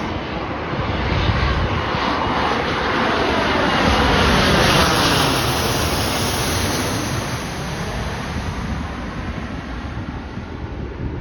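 Embraer ERJ-145 regional jet's twin turbofans passing low overhead on landing approach: a jet whoosh that builds to a peak about four to five seconds in and then fades, with a falling sweep in pitch as it goes by.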